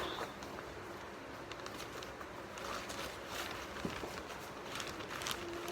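Faint, irregular rustling of a paper towel being put into a plastic zip-top bag.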